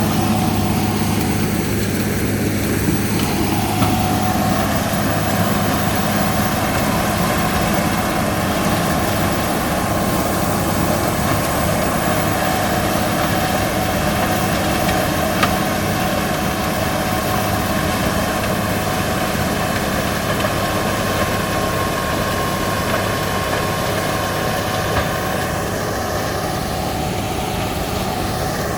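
Heavy diesel engine of road-repair machinery running steadily at constant speed, a continuous low hum with a steady whine above it; the tone sweeps briefly near the start and again near the end.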